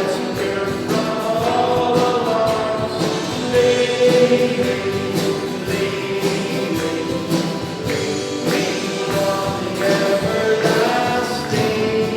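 A congregation singing a hymn or worship song with instrumental accompaniment and a steady beat.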